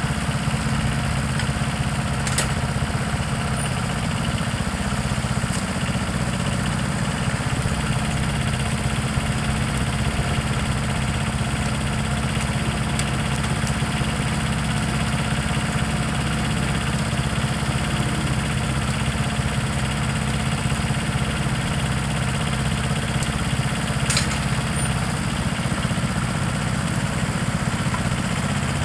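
An engine idling steadily with a low, even drone, with a couple of faint sharp clicks on top.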